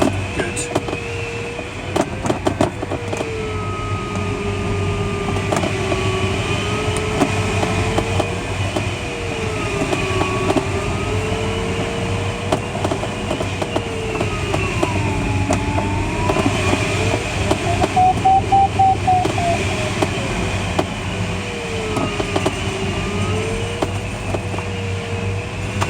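Audio variometer in the cockpit of a Schleicher ASK21 glider. It gives a single electronic tone that slides slowly up and down in pitch and breaks into quick beeps at its highest pitch about two-thirds of the way through, the sign of the glider climbing in lift. Underneath runs a steady rushing of airflow over the glider.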